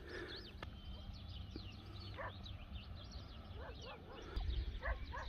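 Small birds chirping and twittering continuously, with a few lower, short calls about two seconds in and near the end. A low rumble comes in during the last second.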